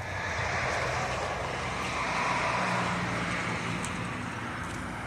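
A motor vehicle's engine running steadily under a rushing noise that swells about two seconds in and then eases off.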